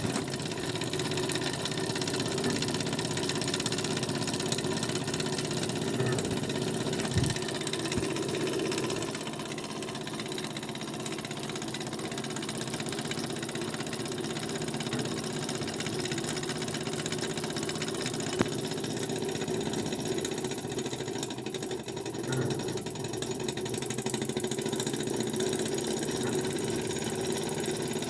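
Burnac Vulcan model live-steam toy engine running steadily: a fast, even mechanical chatter, with a couple of sharper clicks.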